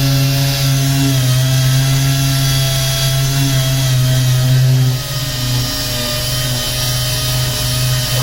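Power sander running steadily, sanding off a car's paint for a repaint; its level drops a little about five seconds in.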